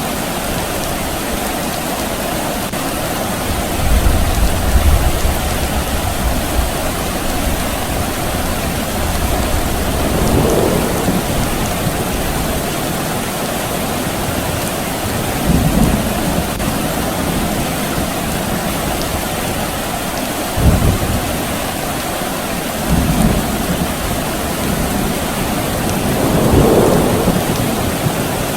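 Steady soft rain with distant thunder: a constant hiss of rain, over which several low rolls of thunder swell and fade, the longest about four seconds in and others later on.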